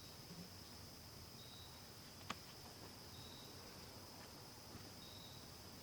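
Near silence with faint insects: a steady high-pitched insect buzz, a short high chirp repeating about every two seconds, and one sharp click a little over two seconds in.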